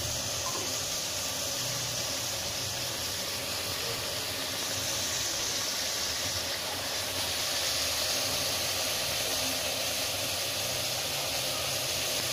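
Chicken and achar (pickle-spice) masala frying in oil in an aluminium pot, a steady sizzling hiss.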